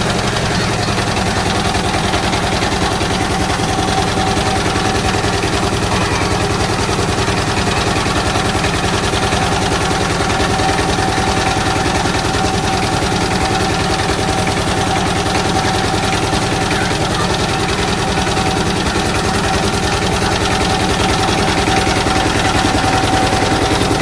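Diesel engine running steadily, a fast, even chugging of firing strokes.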